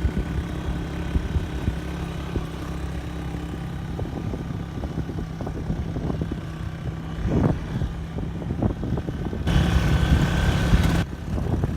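Motorcycle engine running steadily while riding, with road and wind rumble; about nine and a half seconds in the sound turns louder and brighter for a second and a half.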